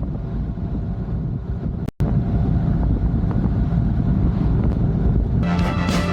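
Wind rushing over the microphone and the low rumble of a Honda Gold Wing GL1500 underway, with music faintly underneath. The sound cuts out for an instant about two seconds in, and music comes in louder near the end.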